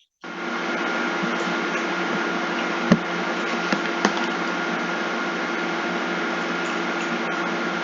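Steady mechanical whir with a constant hum, from a motor-driven appliance, starting abruptly at the outset; two light clicks about three and four seconds in.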